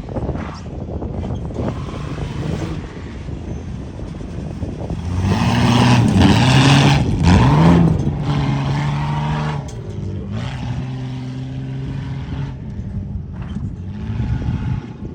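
Truck engine revving hard, its pitch climbing several times in quick succession, then holding steady and easing off.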